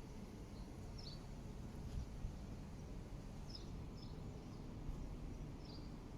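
Quiet outdoor ambience: a low steady rumble with a few short, high bird chirps scattered through.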